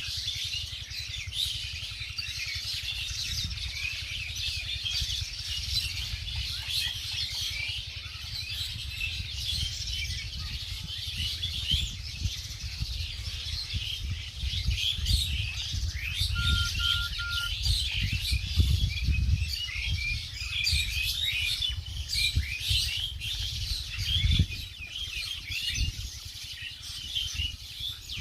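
Many small birds chirping and twittering at once in a dense, continuous chatter, with a low rumble underneath that swells now and then.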